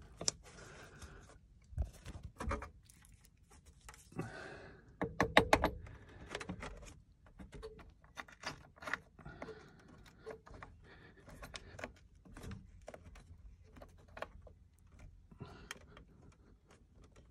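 Jumper-lead clamps and cables being handled and clipped onto battery terminals: scattered metallic clicks, knocks and rattles, with a busier cluster of sharper clacks about five seconds in.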